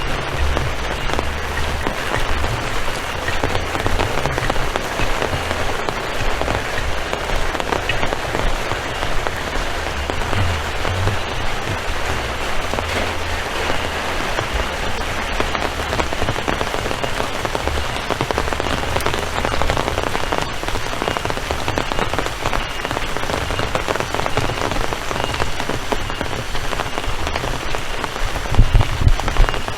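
Heavy rain falling steadily, a dense, even hiss of drops. An uneven low rumble comes and goes underneath it.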